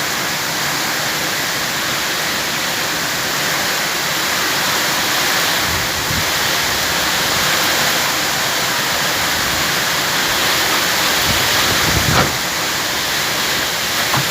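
Heavy rain pouring steadily in strong wind, with a few low gusts swelling up in the second half.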